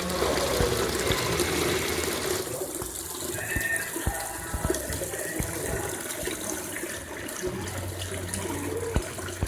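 Water running and splashing steadily from a decorative fountain and small cascade.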